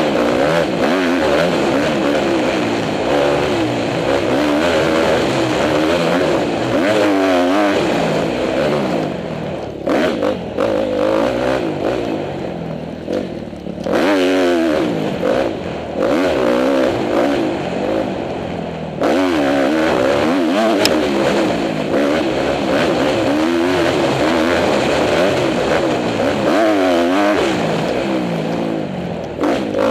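2010 Honda CRF250R four-stroke single-cylinder motocross bike being ridden hard. The engine revs up and down over and over as the rider works the throttle and gears, with a few abrupt breaks in the sound.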